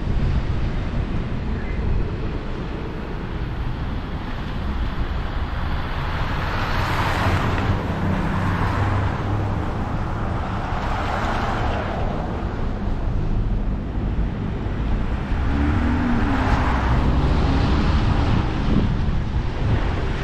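Road noise from a car being driven: a steady low rumble of tyres and engine, with a hiss that swells and fades three times.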